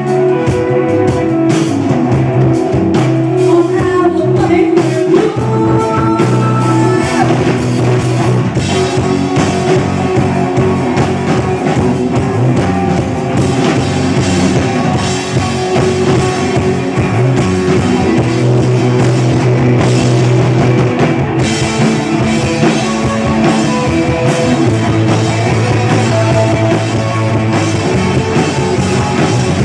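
Rock music with drum kit, guitar and singing, playing loudly and continuously.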